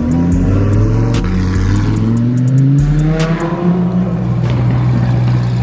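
High-performance car engines running loud, with a steady low drone underneath. About two seconds in, one engine revs up, its pitch climbing as the car accelerates.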